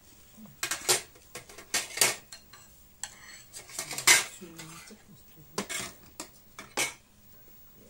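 Metal spoons and cutlery clinking and scraping against plates and bowls during a meal: a string of irregular sharp clinks, the loudest about four seconds in.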